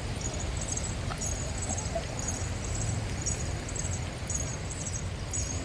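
Footsteps of someone walking, a scuff about twice a second, over a steady low rumble.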